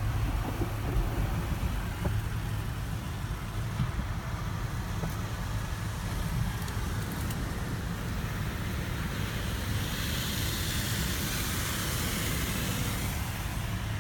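Car wash tunnel equipment running with a steady low rumble. A hiss of spray rises about ten seconds in and eases near the end.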